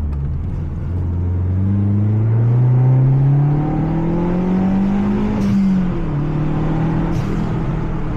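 Mazda 3 MPS's turbocharged 2.3-litre four-cylinder engine under hard driving on track. The revs climb steadily for about four seconds, drop sharply, then hold steady, with two brief hissy bursts near the end.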